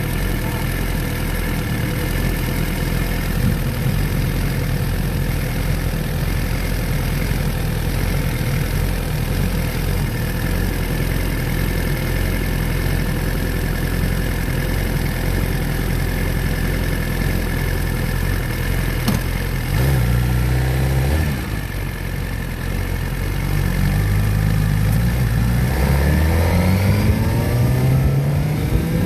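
Motorcycle engine running steadily at idle, then revved briefly about two-thirds through. In the last few seconds it accelerates away, its pitch climbing in repeated rises.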